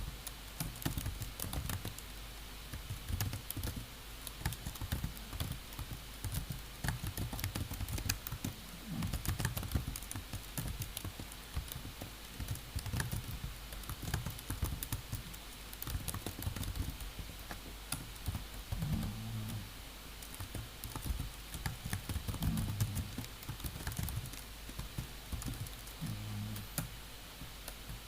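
Typing on a computer keyboard: quick, irregular key clicks in uneven runs, over a steady low hum, with a few short low thuds in the second half.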